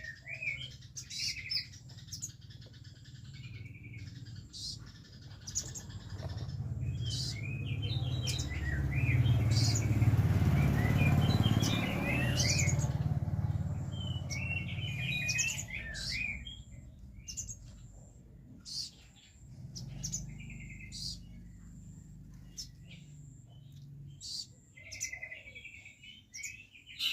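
Oriental magpie-robin (kacer) singing a rapid, stuttering run of chirps and short trilled phrases, the style fanciers call trotol. A low rumbling noise swells and fades in the middle, louder than the song for a few seconds.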